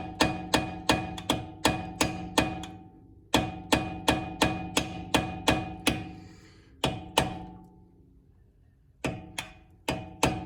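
Hammer blows on steel, about three a second with a metallic ring, staking the collar of a Honda axle nut into the spindle groove so the nut cannot spin loose. The blows come in runs, with a short pause about three seconds in and a longer one near eight seconds before they start again.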